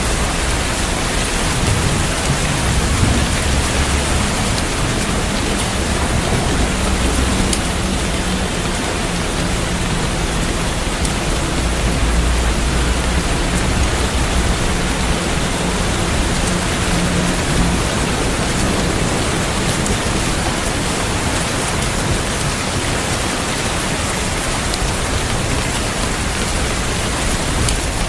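Heavy rain falling steadily as an even, dense hiss, with a low rumble of thunder that rolls in about a second in, swells around the middle and fades out about two-thirds of the way through.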